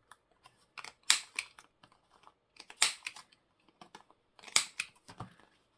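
Corner rounder punch snapping through the corners of a paper journal card: three main sharp clicks about a second and a half apart, with lighter clicks and paper handling in between.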